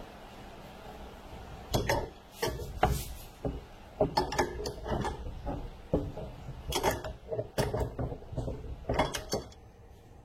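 Hand ratchet wrench clicking in repeated short bursts as bolts are run in, starting about two seconds in and stopping shortly before the end.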